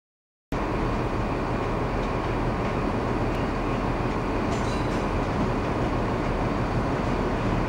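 Diesel multiple unit running into a station, a steady rumble of engine and wheels on the rails that cuts in abruptly about half a second in.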